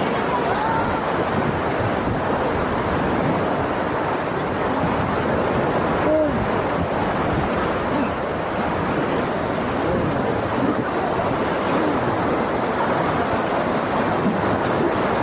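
Whitewater rapids on the Yoshino River, running high just after a typhoon, heard from a raft as it paddles through: a steady, loud rush of churning water.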